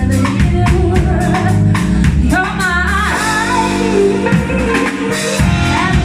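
Live band performing a song: drum kit keeping a steady beat under bass and guitar chords, with a woman singing a line about two to three seconds in.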